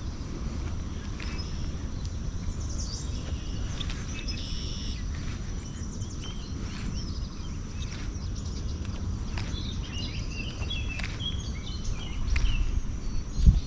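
Outdoor ambience of birds chirping now and then over a steady low rumble, with a few low thumps near the end.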